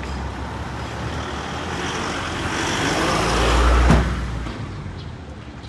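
A road vehicle passing close by. Its engine and tyre noise builds steadily, peaks with a heavy low rumble about four seconds in, then fades away.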